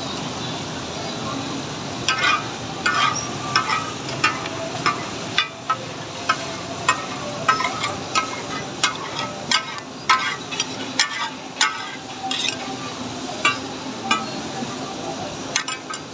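Chicken frying and sizzling in a metal karahi while a metal spatula stirs it, striking and scraping the pan in sharp clinks about once or twice a second. The clinks start about two seconds in and stop near the end.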